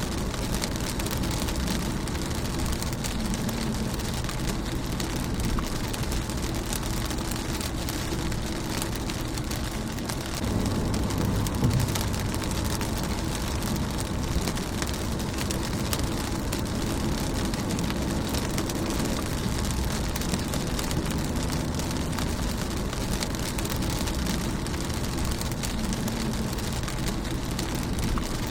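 Steady rain falling on a car's windscreen, a dense hiss with many small drop taps. A low rumble swells briefly about a third of the way in.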